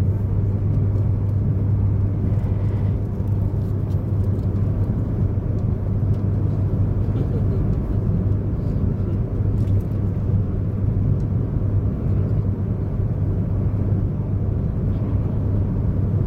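Komachi shinkansen train running at speed, heard inside the passenger car: a steady rumble of running noise with a constant low hum.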